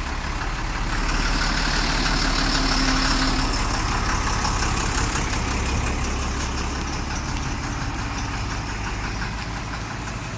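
Same Silver 130 tractor's diesel engine running steadily at low speed. It swells slightly a second or two in, then eases off gradually.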